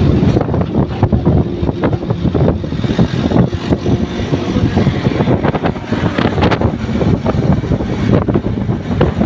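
Motorcycle riding at speed: wind buffeting the microphone over the bike's engine and road noise.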